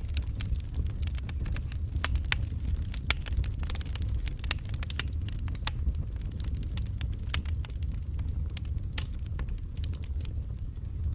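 Wood fire in a fireplace crackling, with many sharp, irregular pops and snaps over a low, steady rumble.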